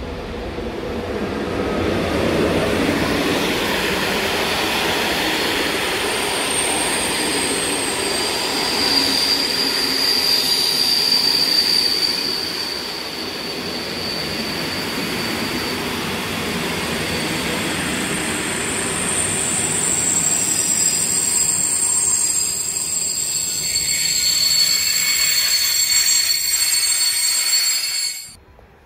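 A train running along the rails, its wheels squealing in high, steady tones over the rumble of the passing cars. The sound cuts off suddenly near the end.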